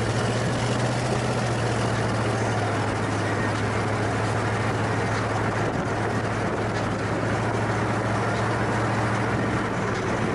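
A car's engine drone and road noise while driving at steady speed: a constant low hum with an even rush of tyre and wind noise.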